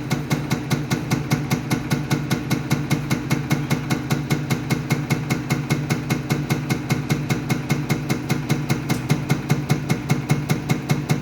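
Mercedes Actros diesel unit pump (Bosch 0414799005) running on an injection test bench: the bench drive hums steadily under a rapid, even train of pumping pulses.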